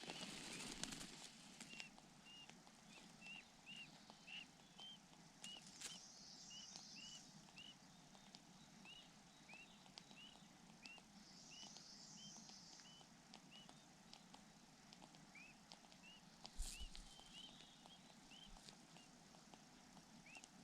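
A bird giving short, faint chirps over and over, about two a second, with a pause of a few seconds past the middle. A single sharp thump cuts in about sixteen seconds in.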